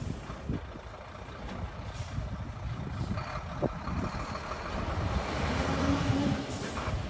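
Iveco Trakker 380 truck's diesel engine running steadily, with a couple of sharp clanks and a brief low hum near the end.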